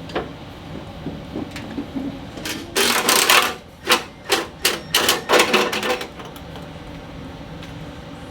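Tools working loose the front fender bolts on a Harley-Davidson Street Glide: a run of loud, short mechanical bursts, about seven of them, starting about three seconds in and lasting about three seconds.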